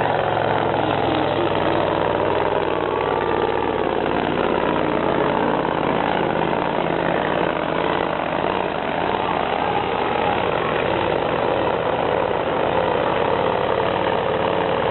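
Scania V8 diesel truck engine running loudly and steadily, with an even pitch throughout.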